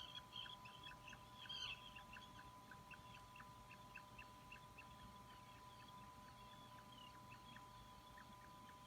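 Puffin chick peeping: a faint, quick series of short high peeps, several a second, most insistent in the first two seconds and then softer. A steady thin electronic whine sits underneath.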